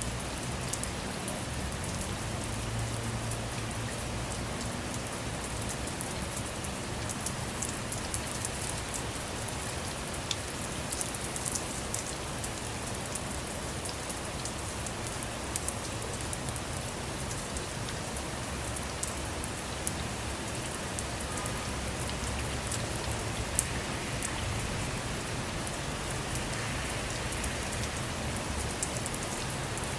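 Steady rain falling on a car, with many separate drop hits ticking over the constant wash of rain, a few of them sharper and louder.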